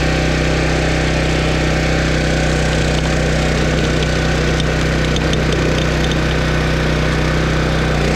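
Engine of a 12-ton engine-powered log splitter running steadily at a constant speed, with a few faint ticks in the middle.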